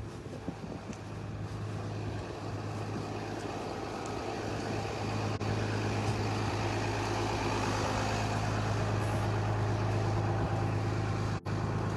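Steady running of a motor vehicle's engine: a constant low hum under a wide rushing noise, with two brief dropouts at cuts.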